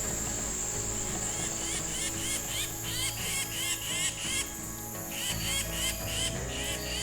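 Evening insect chorus in a field edge: a steady high buzz that drops away about a second in, then a run of short repeated chirps, about three a second.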